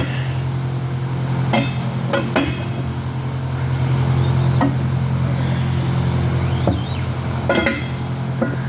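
Metal knocks and clanks, some ringing briefly, as the bottom caps of 2-inch plug valves are worked off with a valve bar: about half a dozen separate strikes, a second or so apart, over a steady low mechanical hum.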